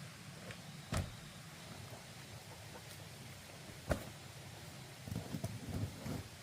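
Two sharp, separate knocks about three seconds apart, then a run of quicker, lighter knocking and clatter near the end.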